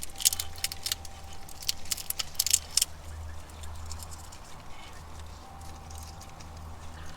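Squirrels feeding at a platform feeder: a quick run of sharp clicks and cracks during the first three seconds, then only a few. A steady low rumble runs underneath.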